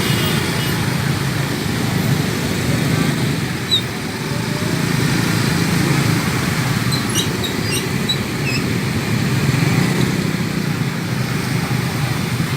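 Road traffic noise in a jam: motorcycle and car engines running as vehicles idle and crawl, a steady rumble.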